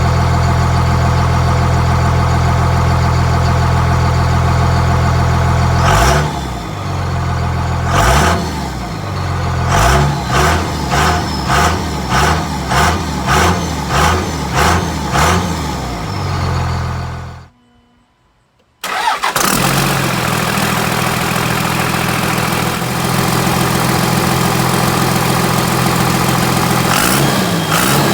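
Dodge Ram turbo-diesel truck engine heard through its exhaust: a steady idle, then a string of quick throttle blips, about two revs a second. After a short break it idles steadily again and revs once near the end.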